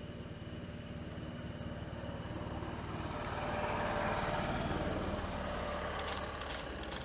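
A motor vehicle passing by: its engine rumble builds to a peak about four seconds in and then fades. A few sharp clicks come near the end.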